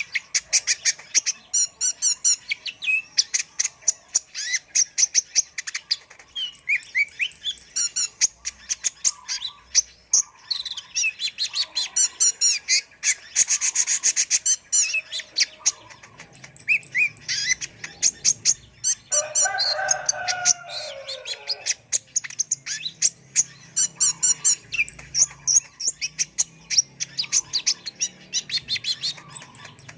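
Kolibri ninja sunbird singing nonstop: a fast stream of high, sharp chirps and stuttering trills. About twenty seconds in, a lower, sweeping phrase joins briefly.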